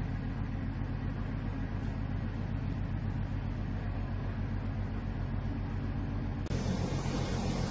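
Steady engine drone with a low hum. About six and a half seconds in it cuts abruptly to a louder, brighter machine noise.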